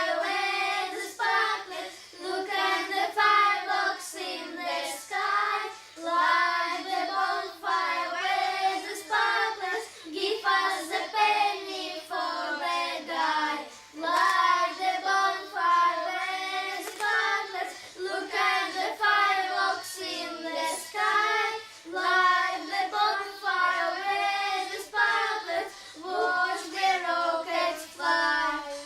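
Children singing a song together in short, evenly paced phrases.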